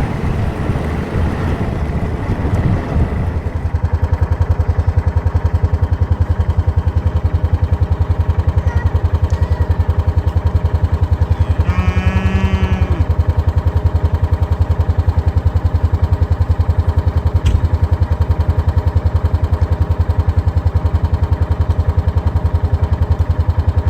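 Kubota M7060 tractor's diesel engine running steadily. From about four seconds in it settles into an even, fast pulse, heard close. About halfway through, a brief wavering higher tone sounds for about a second over the engine.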